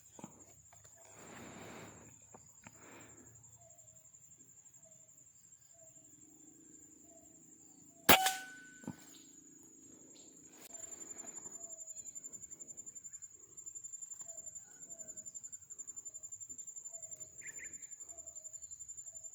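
A single air rifle shot, a sharp crack with a short metallic ring, about eight seconds in, followed by a fainter click. Underneath, insects keep up a steady high whine, and from about eleven seconds a rapid pulsing insect call joins in.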